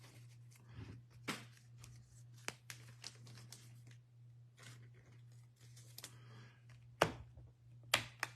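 Trading cards and their foil-and-paper packaging being handled: scattered light clicks and rustles, with two sharper snaps near the end, over a faint steady low hum.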